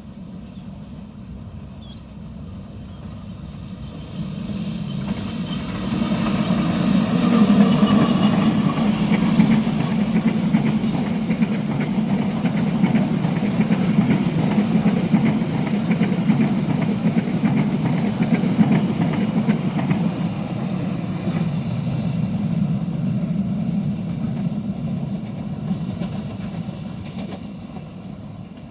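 Diesel-hauled train passing: the locomotive's engine grows loud about five seconds in, then the wagons rumble past steadily for around fifteen seconds before the sound fades away.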